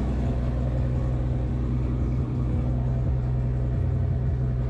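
Car engine idling steadily, an even low running note with no revving.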